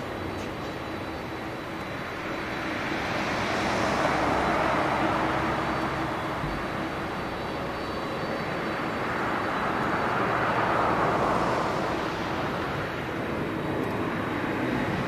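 Jet engines of a Boeing 767-300ER airliner, a steady roar that swells twice, about four seconds in and again about eleven seconds in, with a faint steady whine under it.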